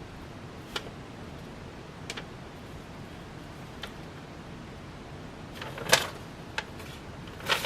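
Ceiling fan box and packaging being handled: a few small scattered clicks, then a couple of louder rustling knocks near the end as the fan is unpacked.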